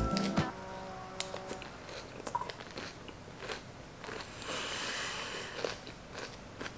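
Close-up chewing of a mouthful of raw lettuce salad: crisp crunches and wet clicks, with a denser run of crunching about five seconds in.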